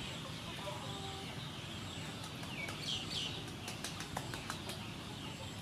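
Birds calling in the open air: a couple of short chirping calls about three seconds in, followed by a quick run of sharp clicks, over a steady background hiss.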